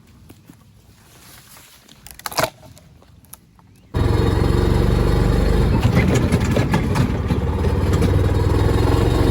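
A sharp knock about two and a half seconds in, then an engine starts running loudly and steadily about four seconds in.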